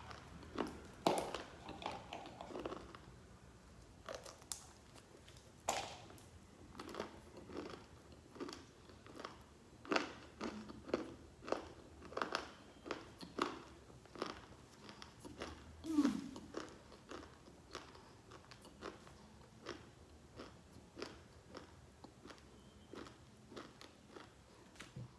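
A dry lump of eating clay bitten into and chewed: crisp crunching bites, then irregular crunchy chews about one or two a second.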